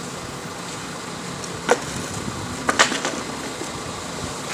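Steady engine and road noise with a few sharp metallic scrapes and clicks: one a little under two seconds in and a short cluster near the middle. These are likely a hand rake levelling the heated, loosened old asphalt.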